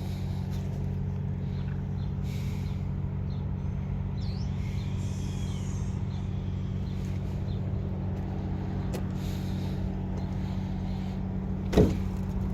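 A steady, unchanging low mechanical hum, like an engine or motor running at a constant idle. A single sharp knock comes near the end.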